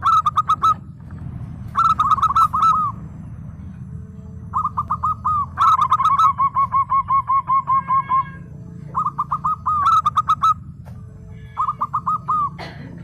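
Zebra dove (perkutut) cooing in six quick staccato phrases of rapid, evenly spaced notes, the longest a drawn-out run in the middle, over a steady low hum.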